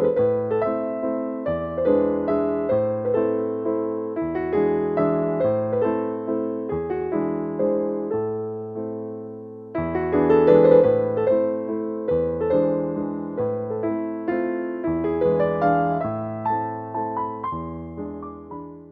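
Background piano music: a gentle melody over bass notes that change every second or two, fading out at the end.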